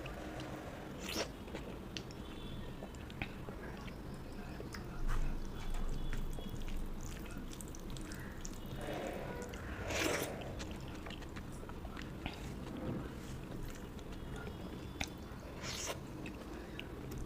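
Close-miked eating sounds: chewing and wet mouth noises with sharp clicks and a few louder crunches, as a rice-and-fish-curry meal is eaten.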